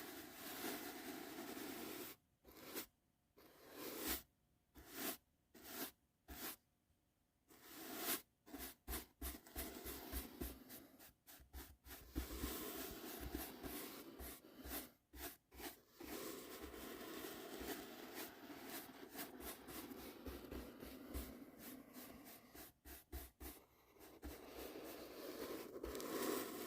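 Soft brush strokes swept over and over with a dry rubbing, scratchy sound. Many short pauses break the strokes in the first several seconds, then the brushing runs on more evenly.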